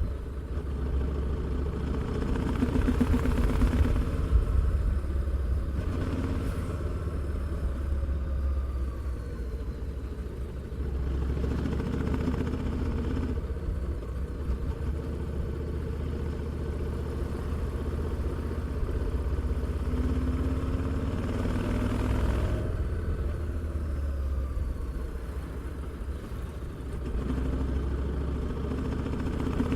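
Harley-Davidson Street 750's liquid-cooled V-twin engine and exhaust running under way, a steady low rumble that rises and eases off several times as the throttle is opened and closed.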